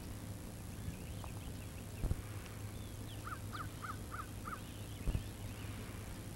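A bird calls five short, quick notes in a row about three seconds in, over fainter scattered chirping of other birds and a steady low hum. Two dull thumps come about two and five seconds in.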